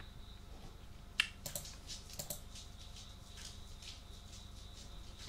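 Computer keyboard keys tapped slowly and irregularly: one sharp click about a second in, a short cluster of lighter clicks after it, then a few faint scattered ones. A faint steady high-pitched tone runs underneath.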